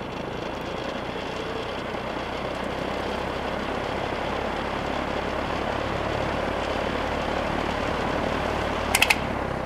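Air King 9218 high-velocity fan running on low speed: a steady rush of air with a low motor hum. Two or three sharp clicks sound near the end.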